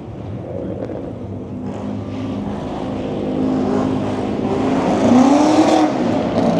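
A car engine running and building revs, its pitch climbing over several seconds and peaking loudest about five seconds in with a quick rise and fall.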